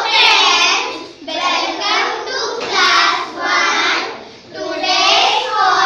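A group of young children's voices sounding together in phrases of about a second each, in a sing-song, chant-like way.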